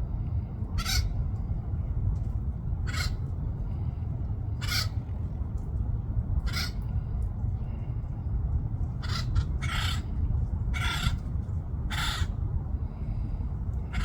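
A woodpecker giving short, harsh calls about every two seconds, coming quicker and in a closer cluster in the second half, over a steady low rumble.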